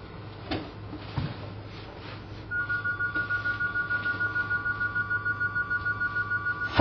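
Telephone ringing: a fast warbling two-tone ring that starts about two and a half seconds in, over a low steady hum.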